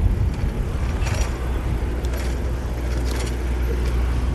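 City street traffic: passing cars with a steady low rumble, heard from a bicycle riding through the streets.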